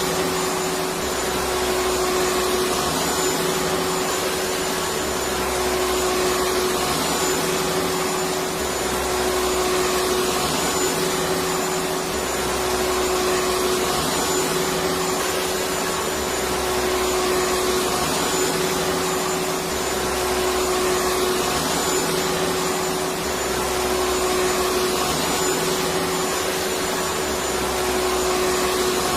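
Vacuum cleaner motor running steadily: a continuous hum and rush of air, with a faint low pulsing that repeats about every two seconds.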